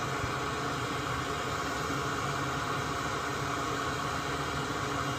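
Steady, even whirring hiss of a small fan motor running at the workbench, unchanging throughout.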